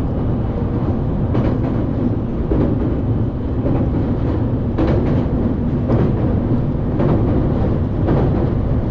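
Commuter train running between stations, heard inside the carriage: a steady low rumble with a faint clack about once a second from the wheels passing over rail joints.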